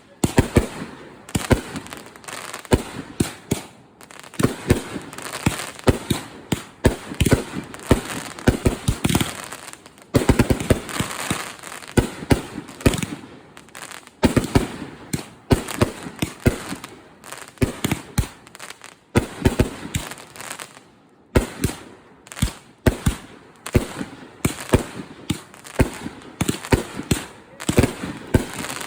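Consumer 500-gram firework cakes firing: rapid volleys of launch thumps and bursting bangs, several a second, in clusters separated by brief lulls.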